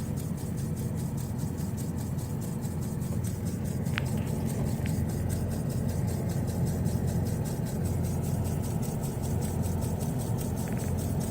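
Rapid, even ticking from behind the glove box of a 2000 Ford Ranger. Its rate rises and falls with the AC blower fan speed, and it is heard over the 3.0 V6 engine idling steadily.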